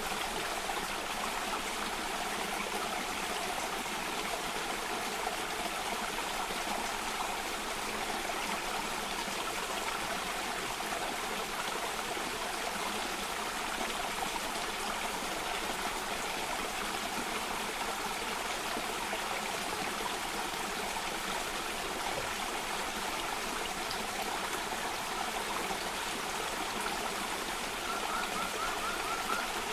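Steady flow of a stream cascading over rocks, an even rushing of water. Near the end there is a brief faint trill.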